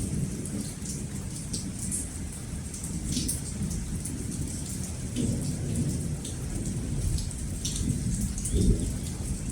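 Steady rain falling with low rolling thunder, the rumble swelling briefly near the end.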